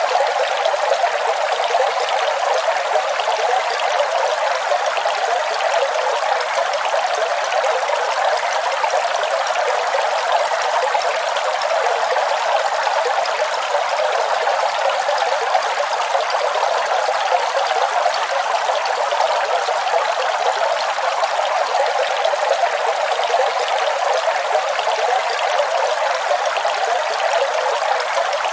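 Waterfall: water pouring and splashing in a steady, even rush that stays the same throughout, with no deep rumble.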